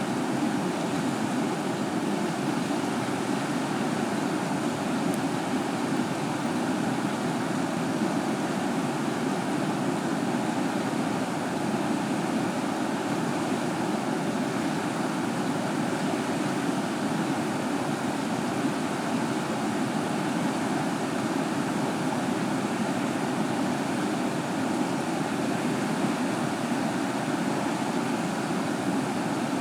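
River water rushing, a steady unbroken noise that does not change.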